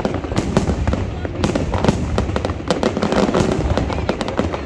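Aerial fireworks display going off without a break: a dense, rapid run of booms and crackles.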